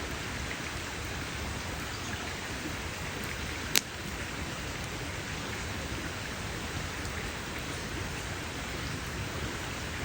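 Campfire burning with a steady hiss and scattered small crackles, and one sharp loud pop about four seconds in.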